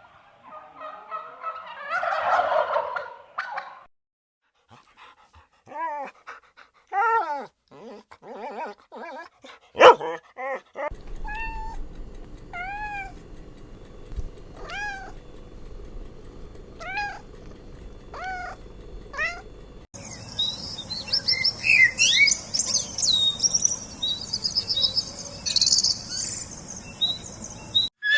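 Several different animal calls, one short clip after another: a loud drawn-out call first, then a run of short repeated calls about every second or two, and high twittering during the last third.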